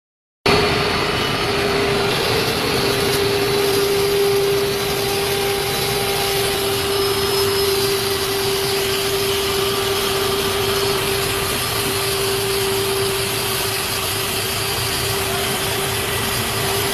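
Vertical pulverizer (flour-grinding mill) running steadily, a constant pitched tone over a dense rushing noise.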